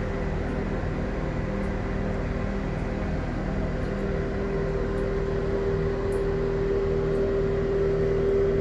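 A steady motor hum with one strong held tone, growing slightly louder near the end.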